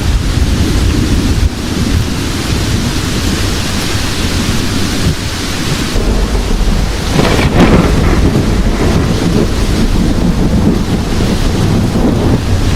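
Thunderstorm: heavy rain falling steadily over a low rolling rumble of thunder, with a louder thunderclap about seven seconds in that rumbles on through the rest.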